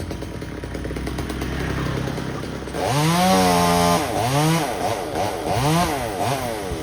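Chainsaw engine running low at first, then revved up to full speed about three seconds in and held there for a second. It is then blipped up and down four or five times in quick succession.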